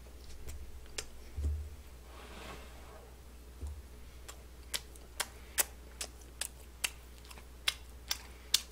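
Close-up crunching as a hard, overcooked chicken skewer is chewed. Sharp, irregular crunches come about two or three a second from about halfway through, with a dull thump about a second and a half in.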